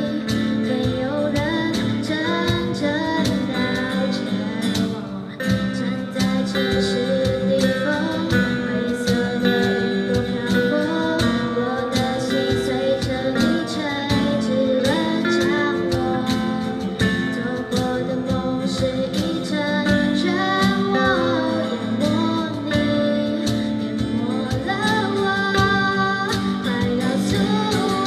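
Live band music with guitars playing under a melody line and a steady beat.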